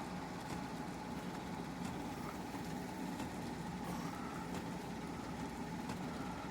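A steady engine hum, unchanging throughout, with a few faint ticks.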